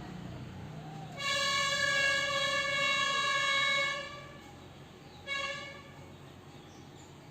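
A vehicle horn sounding: one long, steady honk of nearly three seconds, then a short toot about a second later.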